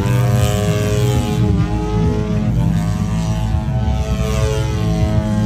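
Radio-controlled model aircraft engine running at high power in flight, its pitch bending briefly as it passes.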